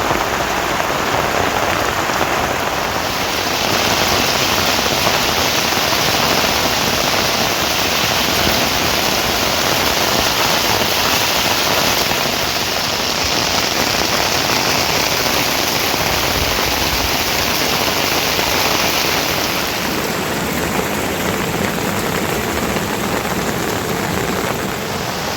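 Heavy rain falling steadily, a dense even hiss that grows brighter from about three seconds in and eases slightly around twenty seconds.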